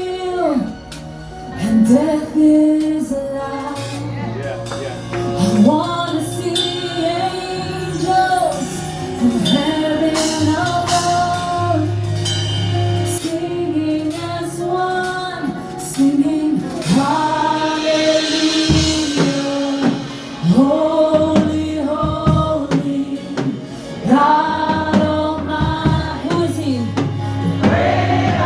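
Live gospel worship music: singers holding long, wavering notes over a band with steady bass notes and percussion.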